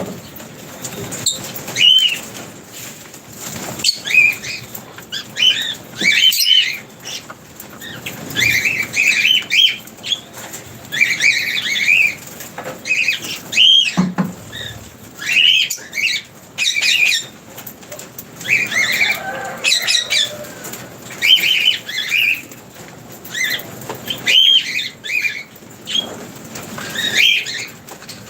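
Lovebirds chirping: a flock of small parrots giving short, high, arched chirps and squeaks, one after another.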